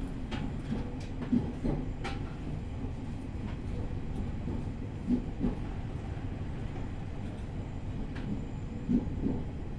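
E501 series electric train rolling slowly under a strong-wind speed restriction, heard from inside the carriage: a steady low rumble, with three pairs of clacks about four seconds apart as the wheels cross rail joints.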